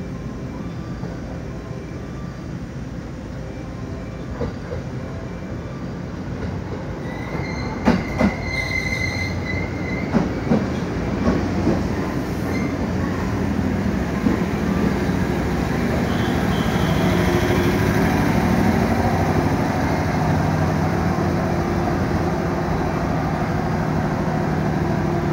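JR West 213-series electric train pulling into the platform and braking to a stop, getting louder as it draws alongside. Its wheels clack over rail joints and squeal briefly about eight seconds in, and it settles into a steady hum near the end.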